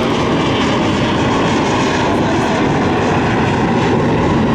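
Jet airliner engines running close by: a loud, steady rush of noise with faint whining tones in it.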